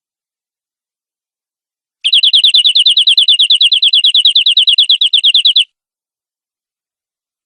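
Domestic canary singing a rapid trill of evenly repeated high notes, about eleven a second, that starts after two seconds of silence and lasts about three and a half seconds before stopping abruptly.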